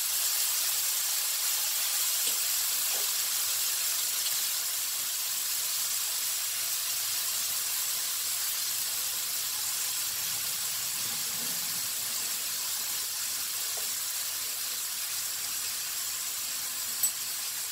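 Paneer cubes, sliced onions and green chillies frying in hot oil in a pan: a steady, high sizzle throughout, with one small click near the end.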